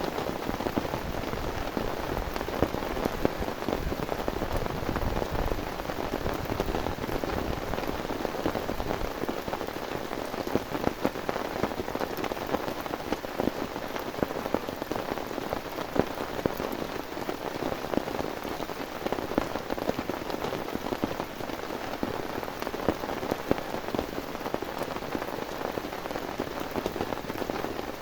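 Heavy rain falling steadily, with a dense patter of separate drop hits.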